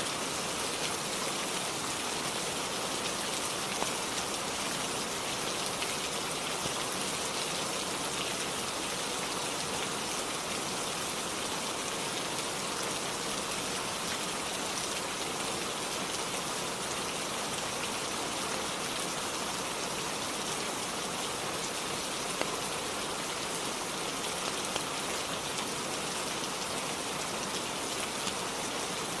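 Steady rain falling on a surface, an even unbroken hiss with a few faint ticks here and there.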